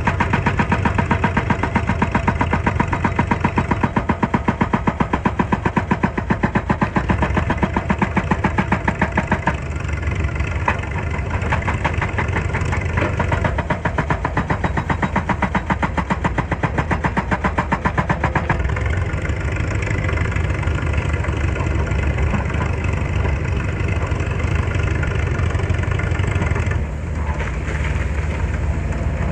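Excavator's diesel engine running with a fast, even throb. The throb changes about a third of the way in, evens out past the middle, and dips briefly near the end.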